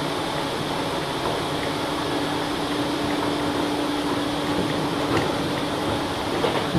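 Steady hum and running noise heard from the cab of an Enshu Railway 1000 series electric train. A steady mid-pitched tone sounds for a few seconds in the middle, with a few faint clicks.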